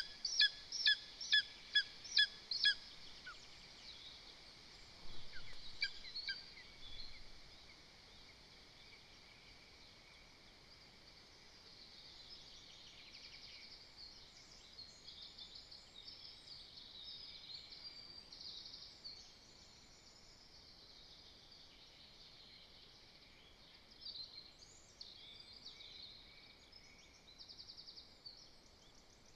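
Lesser spotted eagle giving a series of short, high yelping calls, about two and a half a second, which stop about three seconds in, with a few weaker notes a couple of seconds later. Faint songbird song follows in the background.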